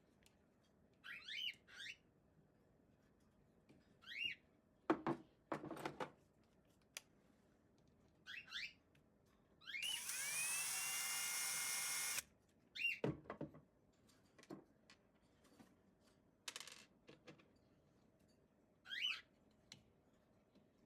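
Hair dryer run briefly for about two seconds: the motor and fan spin up with a rising whine under a rush of air, then cut off. Scattered handling knocks and clacks come before and after.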